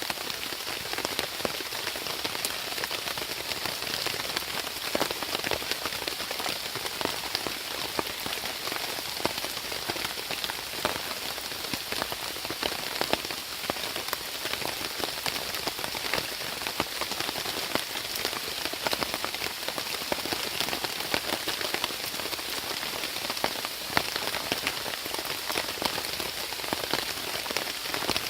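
Steady rain falling, an even hiss with many sharp single drop hits scattered through it.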